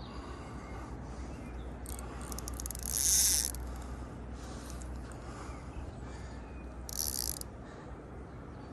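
Fishing reel ratcheting in two short, high, buzzing bursts, a longer one about three seconds in and a shorter one about seven seconds in, as a hooked carp pulls line or the line is wound in.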